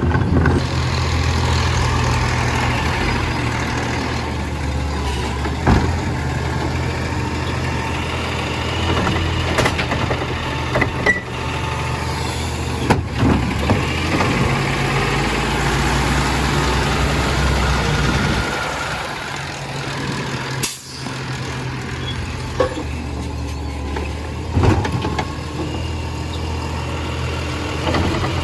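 Compost collection truck's engine running steadily, with a few sharp knocks and clanks over it.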